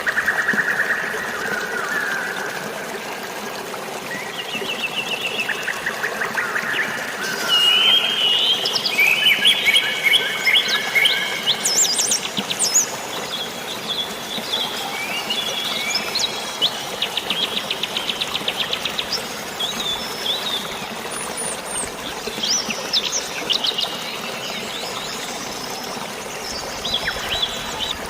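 Several songbirds chirping and trilling, with rapid pulsed trills, short chirps and quick whistled glides; the calls are busiest in the first half. Underneath is a steady rushing of water and rain.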